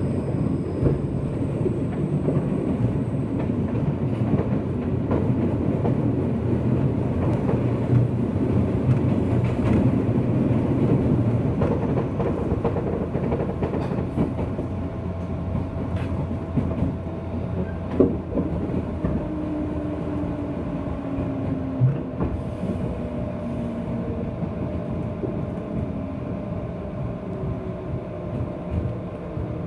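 Onboard running noise of a JR West 201 series electric motor car: a steady low rumble of wheels on rail and traction motors. A few sharp knocks sound over rail joints, and faint whining tones run through it, one falling slowly about two-thirds of the way in.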